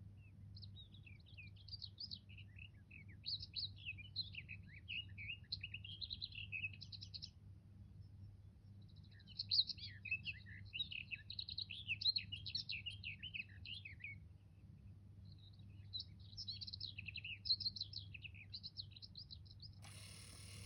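Recorded birdsong played by a cuckoo clock on the hour: three long runs of quick, warbling chirps and trills, each a few seconds long, with short pauses between.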